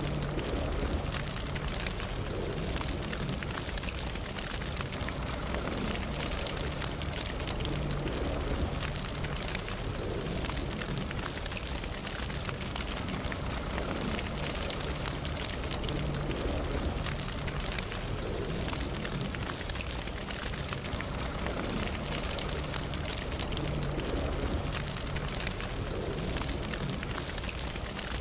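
Campfire burning steadily: a continuous low rush of flames with frequent irregular crackles and pops from the burning wood.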